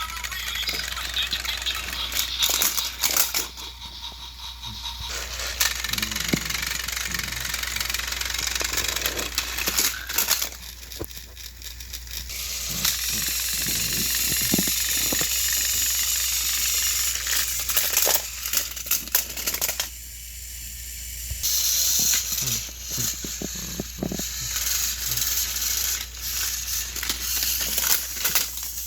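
Motors of battery-powered Thomas & Friends toy engines whirring while their wheels rattle and click on plastic track as two engines strain against each other. The sound drops away briefly three times.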